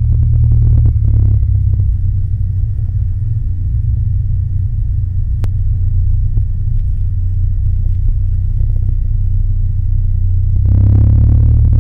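Cessna 172 Skyhawk's four-cylinder Lycoming O-320 engine and propeller running with a deep, steady drone. It grows louder about eleven seconds in.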